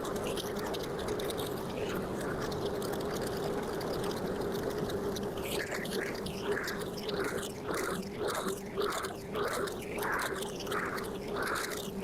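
Small engine of petrol lawn-care equipment running at a steady speed. About halfway in, a rhythmic swishing starts, about twice a second.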